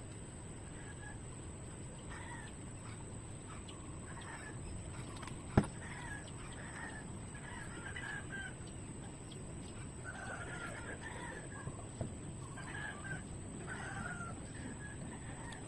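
Scattered bird calls, more frequent in the second half, over a steady low background noise, with one sharp knock about five and a half seconds in.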